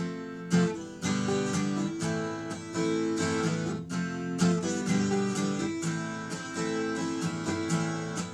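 Acoustic guitar strumming chords, starting abruptly.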